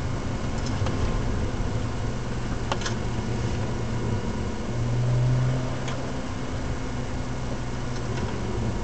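BMW 135i's N54 twin-turbo inline-six running at a steady low drone under road noise, swelling briefly about five seconds in. A couple of short clicks sound along the way.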